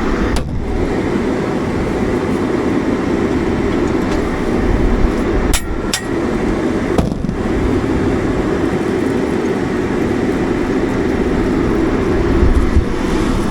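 Tractor engine running steadily under load, a low, even rumble, with two sharp clicks a little over five seconds in.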